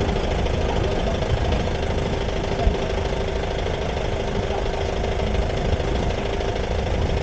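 Jeep engine running steadily, heard as a constant hum and rumble, with a few short low thumps.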